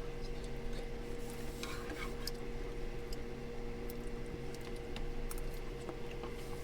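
Small clinks and scrapes of a utensil against a dish while eating, over a steady low hum.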